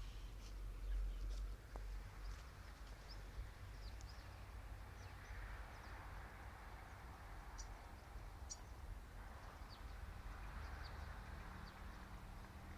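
Quiet outdoor ambience: scattered short, high bird chirps over a soft steady hiss and a low rumble.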